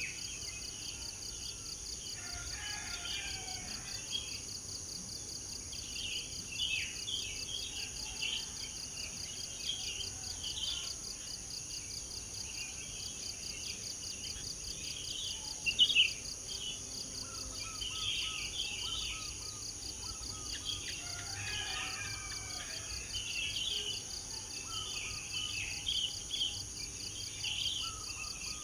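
Several small birds chirping and singing in short, overlapping phrases over a steady, high, pulsing drone of insects such as crickets. One call near the middle is louder than the rest.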